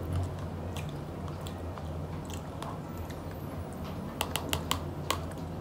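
Close-up mouth sounds of someone chewing kwek-kwek (battered, deep-fried quail eggs), with a few quick light clicks a little past the middle as a metal fork knocks against a plastic cup of vinegar dip.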